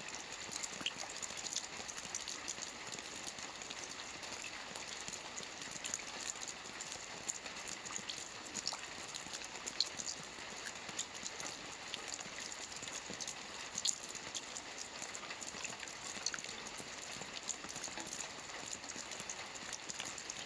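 Soft rain falling steadily on a roof: an even hiss with many small drops ticking, and now and then a louder drop standing out.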